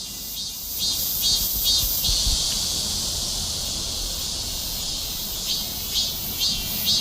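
A cicada singing: a high buzz pulsing about twice a second, which merges into one continuous buzz for a few seconds in the middle, then breaks back into pulses near the end.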